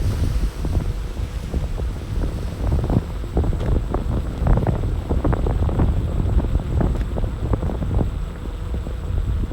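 Wind buffeting the microphone in a steady low rumble, with many short, irregular clicks and knocks over it.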